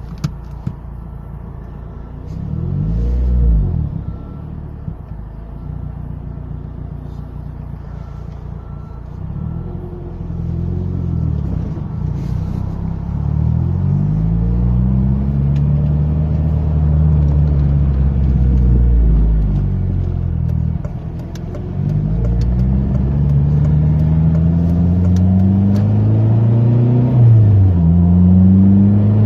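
Turbocharged Honda engine with a PRL turbo kit accelerating under low boost. Its pitch climbs steadily through each gear and drops sharply at the upshifts, about twenty seconds in and again near the end.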